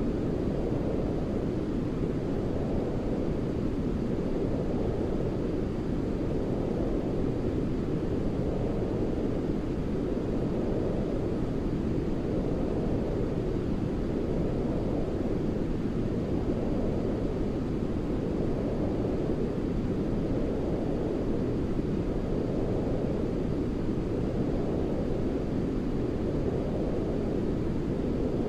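Steady, deep sleep noise for a baby: white noise weighted toward the low end, of the brown-noise kind. It swells gently and slowly every few seconds.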